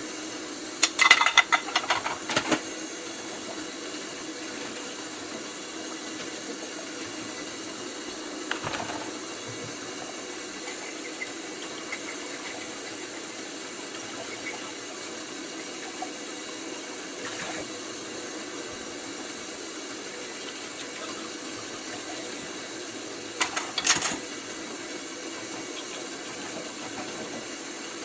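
Dishes clattering in two short bursts, one about a second in and one near the end, with a couple of faint knocks between, over a steady hum.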